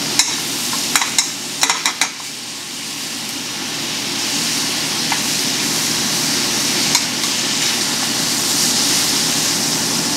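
Frog legs sizzling as they sauté in a hot pan, with a few sharp clicks near the start. The sizzle grows louder after the first couple of seconds.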